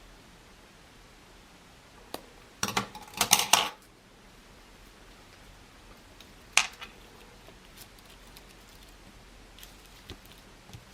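Small hard craft items handled and set down on a work surface: a brief clatter of knocks and clicks about three seconds in, and a single sharp click a few seconds later.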